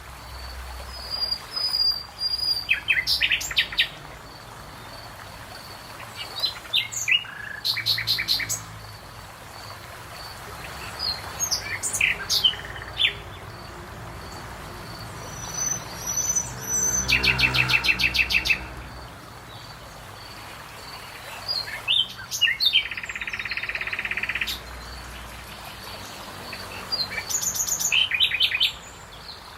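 Songbirds singing and calling: a series of rapid trills and chirped phrases every few seconds with short pauses between, over a faint steady high-pitched tone.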